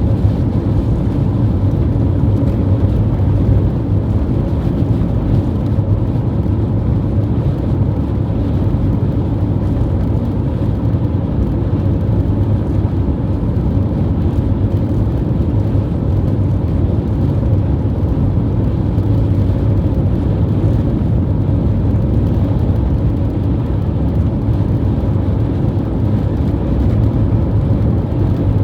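Strong wind blowing, a steady low rumble.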